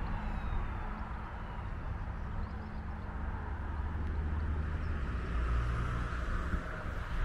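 Electric multiple-unit regional train running on the line at a distance: a steady low rumble with rail noise, swelling a little after the middle.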